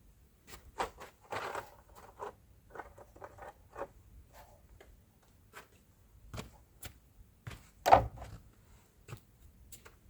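Scattered small knocks, taps and rustles of things being handled, with one louder thump about eight seconds in.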